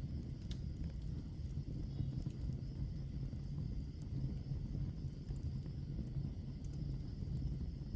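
Wood fire burning in a fireplace: a steady low rumble of flames with a few sharp crackles from the logs.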